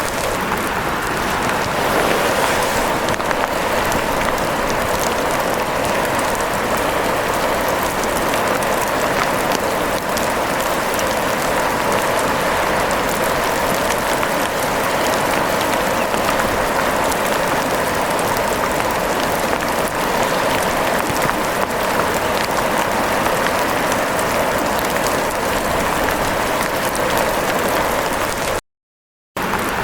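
Steady rain falling as an even hiss with scattered fine drop ticks. It cuts out to complete silence for under a second near the end.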